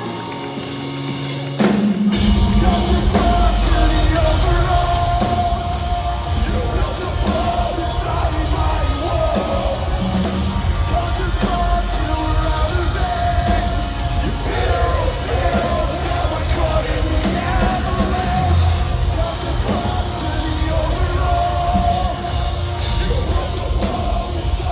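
Metalcore band playing live, with heavy guitars, bass and a drum kit under shouted vocals. A quieter opening gives way to the full band crashing in about two seconds in.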